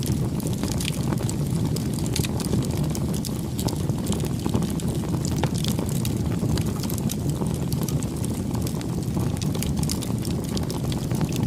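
Wood fire burning: a steady low rumble of flames with many sharp crackles and pops from the burning wood.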